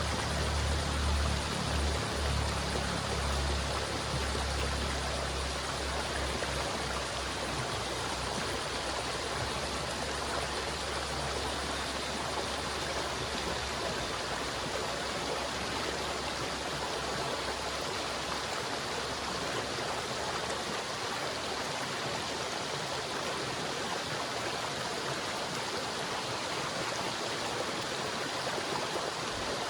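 River water flowing in a steady, even rush. A low rumble under it is strongest in the first few seconds and fades away by about the middle.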